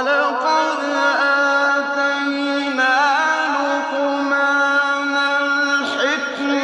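Melismatic vocal chanting in a Middle Eastern style: a voice holds and ornaments long notes with wavering, sliding pitch over a steady low drone.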